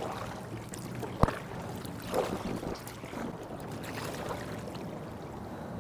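Water lapping at a kayak with light wind noise, and one sharp knock about a second in.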